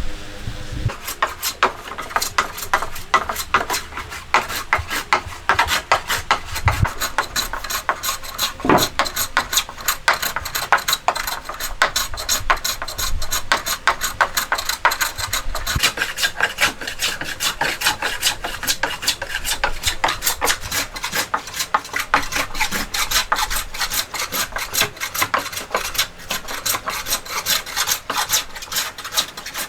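A hand tool working wood in rapid, even scraping strokes that start about a second in and carry on steadily.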